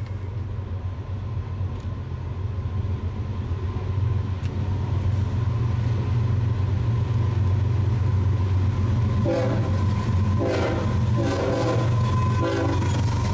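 BNSF freight train's diesel locomotives rumbling steadily as the train approaches and passes, growing louder over the first few seconds. The locomotive horn sounds in a series of short blasts from about nine seconds in.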